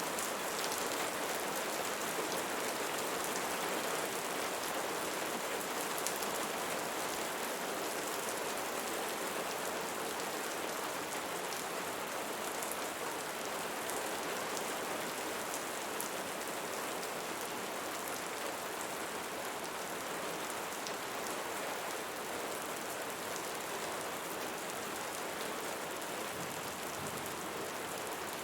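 Steady rainfall, with many small drop ticks on top of an even wash of rain noise.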